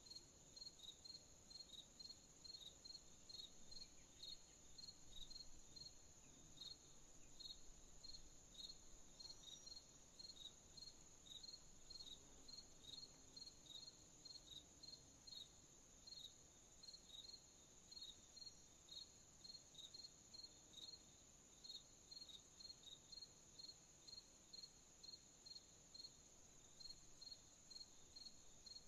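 Faint night-time crickets: a regular chirping, about three chirps a second, over a steady high-pitched insect trill.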